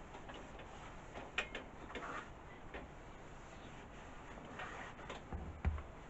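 Scattered light clicks and knocks of parts and tools being handled on a lawnmower engine, with a few brief rubbing rustles, and one dull thump near the end.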